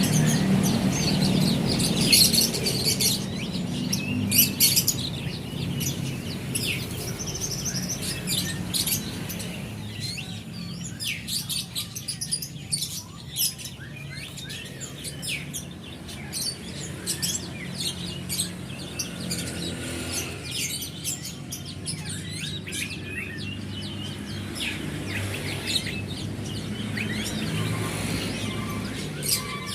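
Many caged songbirds chirping and calling at once: dense, sharp high-pitched chirps and short whistles overlapping throughout, over a steady low hum.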